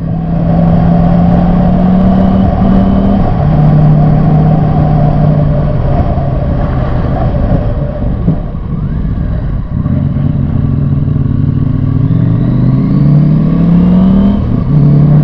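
Motorcycle engine running under way, its pitch climbing as it accelerates and dropping at each gear change, about three seconds in and again near the end.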